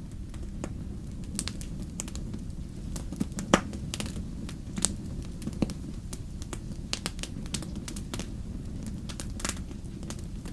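Wood fire in a fireplace burning with a steady low rumble and irregular sharp crackles and pops, one pop louder than the rest about three and a half seconds in.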